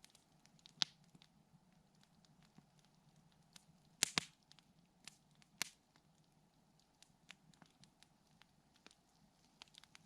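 Campfire crackling: scattered sharp pops and ticks of burning wood. The loudest come in a quick cluster about four seconds in, with others just under a second in and about five and a half seconds in.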